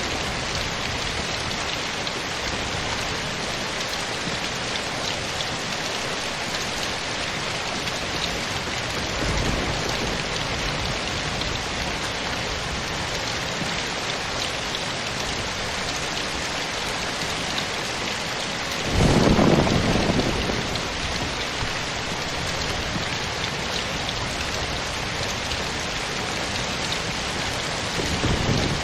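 Steady rain falling, an even hiss of many drops. About two-thirds of the way through comes a louder low rumble of thunder lasting a second or two, with fainter low rumbles about a third in and at the very end.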